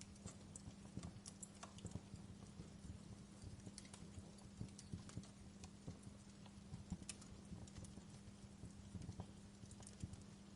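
Wood fire crackling faintly, with irregular small pops and snaps, over a steady low hum.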